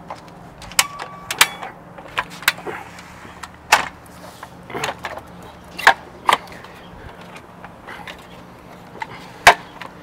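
Irregular sharp clicks and knocks, about a dozen, the loudest near the end, over a steady low hum.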